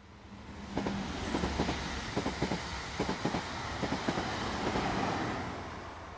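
Train running along the track: a low rumble with the wheels clicking over rail joints. It swells in over the first second and slowly fades near the end.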